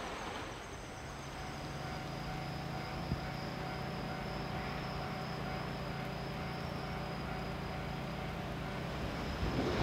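Steady low drone of an approaching JNR Class DD51 diesel-hydraulic locomotive's engines, coming in about a second in, over the steady chirping of crickets.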